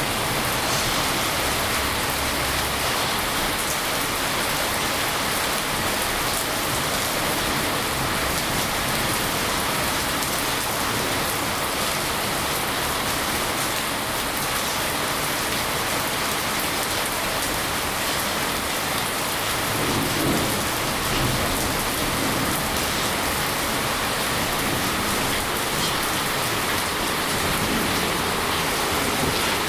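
Steady heavy rain, a dense even hiss of drops pattering on a surface, with a brief low rumble about twenty seconds in.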